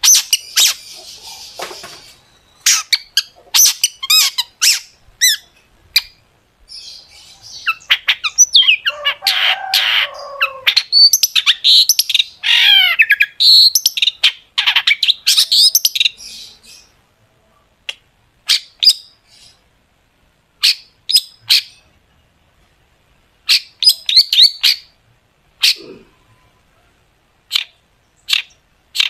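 A long-tailed shrike (cendet) singing. It gives rapid strings of sharp, short 'tembakan' notes, with a dense stretch of varied chattering and sliding notes about a third of the way in. Later come scattered single notes with pauses between them.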